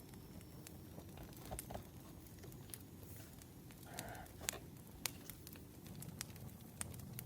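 Wood fire crackling: irregular sharp pops and snaps over an even low noise, with a brief soft tone about four seconds in.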